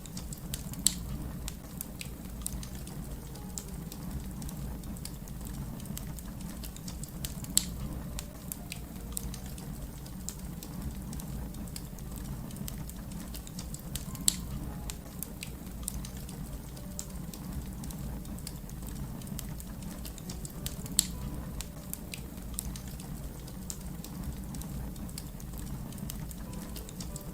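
Fire crackling: dense small snaps and ticks over a steady low rumble, with a few sharper, louder pops spaced several seconds apart.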